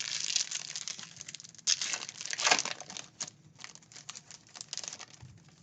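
Foil wrappers of Bowman Baseball trading-card packs crinkling as they are torn open and handled, with two louder spells, one at the start and one about two seconds in.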